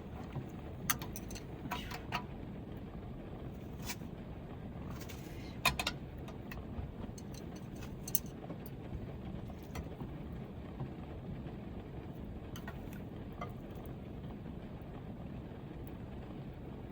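Heavy rain drumming steadily on the roof of a Toyota HiAce van, heard from inside, with a few sharp clicks and taps.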